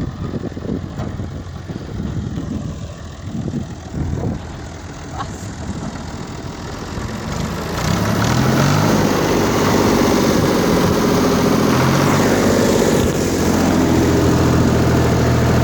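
Tractor engine running, an uneven low rumble at first, then louder and steady from about eight seconds in, its pitch shifting up and down a couple of times.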